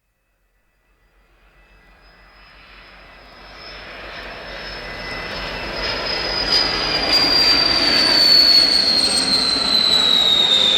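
Jet aircraft engine fading in and growing steadily louder, with a high turbine whine that slowly falls in pitch.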